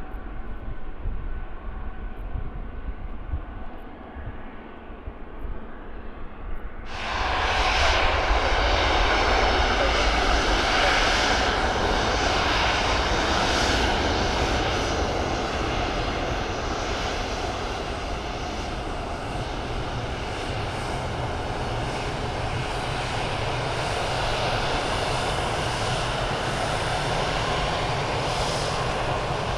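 Jet aircraft engines at an airport runway, a steady rushing noise. About seven seconds in it suddenly becomes louder and brighter, then holds steady.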